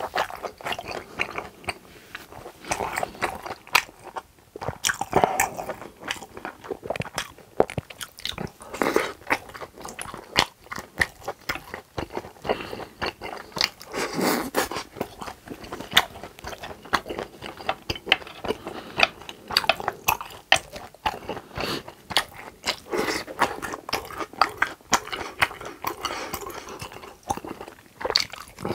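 Close-miked eating: biting and chewing of grilled pork intestines (gopchang), with many short clicks from the mouth throughout.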